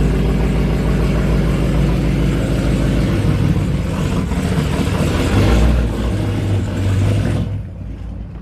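Dodge Charger Scat Pack's 392 Hemi V8 running with a loud, deep exhaust, swelling briefly about five and a half seconds in. The sound drops away sharply near the end.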